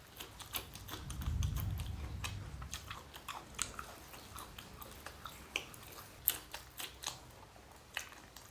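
A person chewing and eating, with irregular small wet clicks from the mouth. A low rumble swells briefly about a second in.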